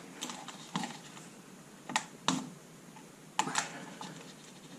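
Hand tools and metal suspension parts clinking and knocking: about six sharp, irregular clicks while a steering part is being taken off.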